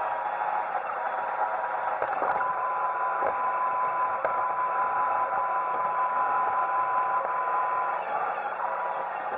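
Roomba 880 robot vacuum running: a steady whir of its vacuum motor and brushes with a thin steady whine, and a few faint knocks.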